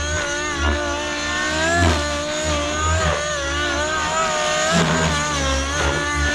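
Nitro RC helicopter's 50-class glow engine with tuned pipe, running hard in flight together with the rotor, its pitch wavering up and down every second or so as it manoeuvres. The governor is off, so engine speed follows the throttle curve alone.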